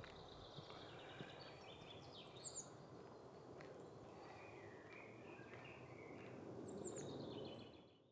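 Birds chirping and singing over faint outdoor background noise, with two quick, high, falling chirps, one a couple of seconds in and one near the end. The sound fades out at the very end.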